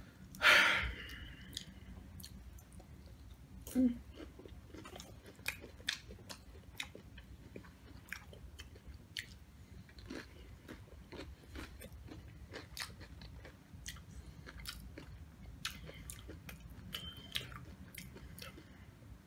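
Close-miked chewing of Doritos nachos: a string of irregular crunches and wet mouth clicks, opening with one louder noisy burst.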